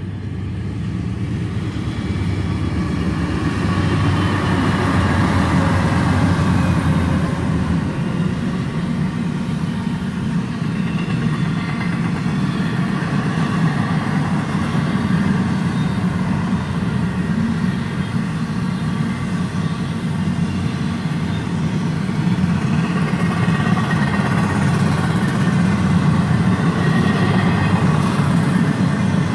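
Diesel freight locomotive engines running with a steady low drone as a freight train rolls past.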